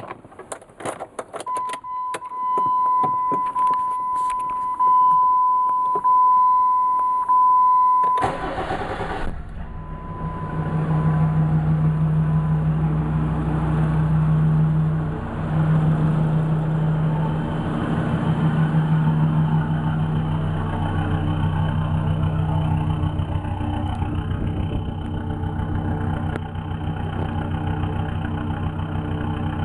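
Clicks and key sounds with a steady electronic warning tone, then about eight seconds in the starter cranks briefly and the Jeep Grand Cherokee WJ's 3.1-litre five-cylinder turbo diesel fires and runs steadily at idle.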